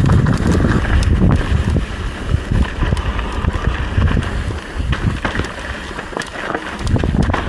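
Wind buffeting the microphone of a camera on a moving mountain bike, with the bike's rattles and knocks from riding the trail.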